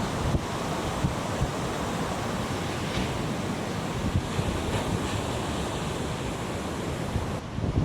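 Strong wind buffeting the microphone in uneven low gusts over the steady wash of breaking surf.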